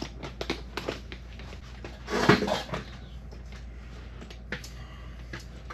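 Clicks and knocks of small objects being handled while staples are fetched for a cable stapler, with one louder clatter about two seconds in.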